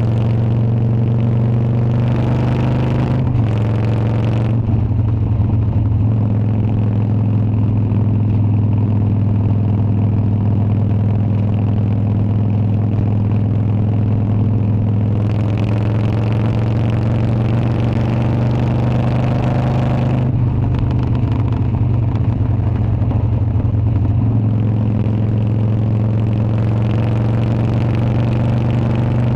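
Harley-Davidson Dyna's V-twin engine running at a steady pitch, with a small step in pitch about three seconds in. A hiss joins it briefly around three seconds in and again for about five seconds past the middle.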